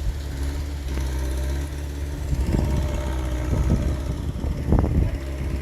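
A heavy diesel engine running steadily with a low hum, with irregular clanks and knocks starting about two and a half seconds in, the loudest near the end.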